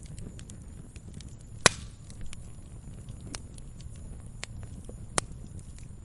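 Wood fire crackling in a fireplace: a low steady rumble of burning logs with scattered small snaps, and two sharp loud pops, one under two seconds in and one near the end.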